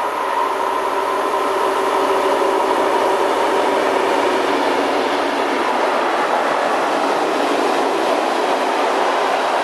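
Diesel-hauled freight train passing close by: the DSB Nohab diesel locomotive's engine goes past, followed by a long string of tank wagons and covered vans rolling by on the rails. The noise builds over the first second as the locomotive draws level, then holds steady as the wagons pass.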